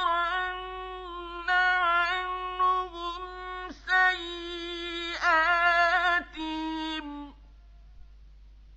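A man's voice reciting the Quran in the melodic mujawwad style, high-pitched and drawn out. He sings several long held phrases with ornamented turns, ending about seven seconds in.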